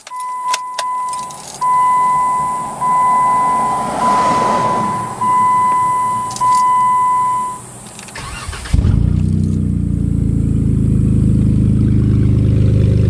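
An in-cab warning chime sounds six times, each beep about a second long. Then the 3.6-litre Pentastar V6 of a 2012 Jeep Wrangler JKU starts suddenly and idles, loud and deep, through an exhaust that ends right after the catalytic converters (cats only, no pipes or mufflers).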